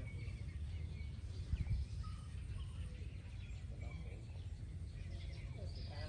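Faint, scattered bird chirps and peeps over a steady low outdoor rumble, with one louder thump about a second and a half in.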